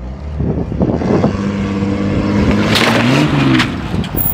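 Jeep Grand Cherokee engine revving as the SUV accelerates, its pitch rising and falling a little after three seconds in. The exhaust is fitted with novelty whistle-tip "turbos". Two short bursts of noise stand out around three seconds in.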